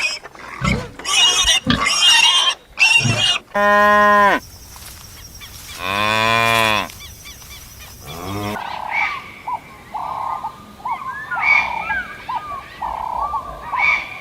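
Farm animal calls: a few short sharp calls at first, then cattle mooing in long drawn-out calls about four and six seconds in. From about eight seconds on, a chorus of many short overlapping calls from a flock takes over.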